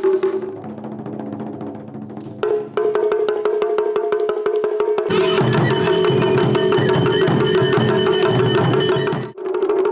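Japanese taiko drum ensemble playing fast strokes under a steady held melodic tone. The playing grows fuller and denser about halfway through and breaks off briefly near the end.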